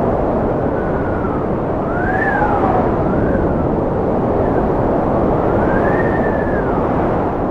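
Wind blowing hard and steadily, with a whistling howl that rises and falls in pitch several times.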